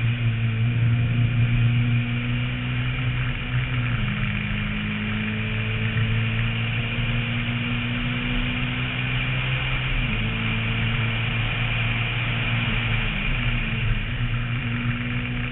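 Renault Mégane rally car engine running hard at a steady pitch, heard from a camera on the roof with road and wind noise. The engine note steps down slightly about four seconds in and back up about ten seconds in.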